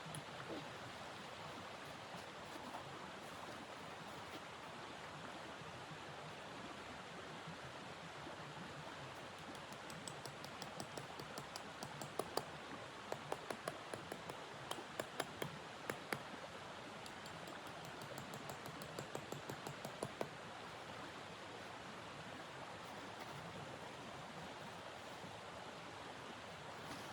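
A steady rushing noise, with a run of sharp, irregular clicks and crackles between about ten and twenty seconds in.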